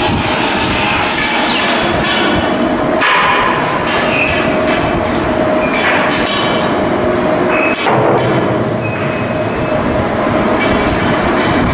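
Loud, continuous steel-working noise on a ship under construction, with a steady tone running through it and sharp knocks about three and eight seconds in.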